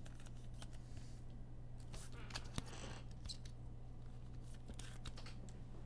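Trading cards being handled and slid against one another: scattered light clicks and a brief rustle, over a steady low electrical hum.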